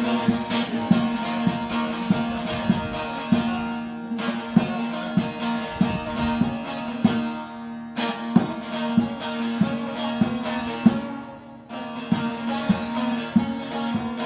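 Instrumental interlude of a Kurdish folk song on a plucked string instrument. Quick plucked notes run over a steady held low note, in phrases with brief pauses between them.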